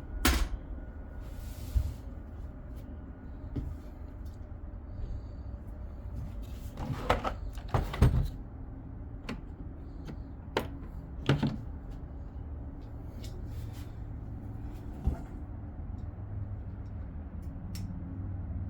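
Scattered knocks and clunks of hands and tools working on a pit bike, several strikes grouped around seven to eight seconds in, over a low steady rumble.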